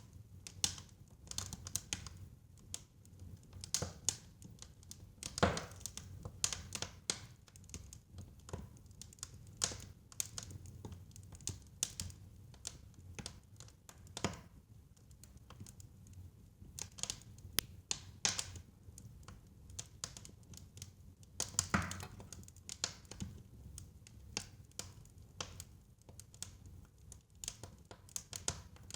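Fire in a fireplace crackling: irregular sharp snaps and pops over a low steady rumble, with two louder pops, one about five seconds in and one a little past twenty seconds.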